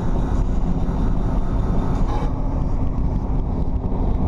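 Jeep Cherokee XJ driving, with a steady rumble of engine and road noise.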